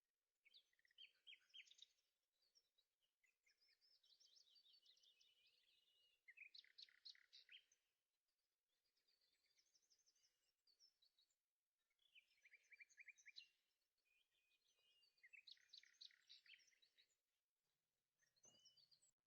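Faint birdsong: a small songbird singing short, rapid trilled phrases, repeating every two to three seconds.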